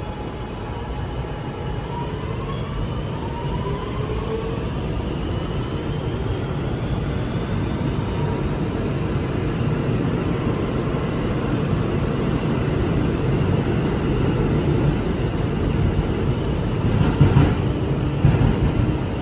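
R211 subway car running between stations, heard from inside: a steady rumble of wheels on rail under a propulsion whine that rises slowly in pitch as the train picks up speed. Two short clattering jolts come near the end.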